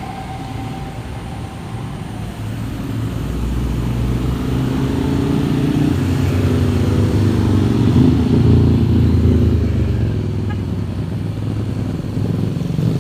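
A truck's diesel engine working hard on a steep climb as it passes, growing louder to a peak about eight or nine seconds in, then easing off.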